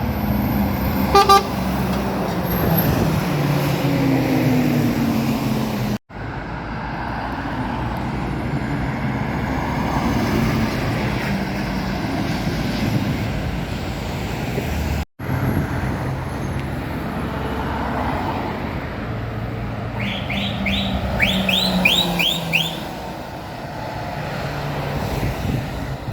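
Lorries and other road traffic passing on a main road, engines and tyres running steadily, in three clips cut together. A brief horn toot comes about a second in, and a quick run of about eight short, high rising chirps comes near the end.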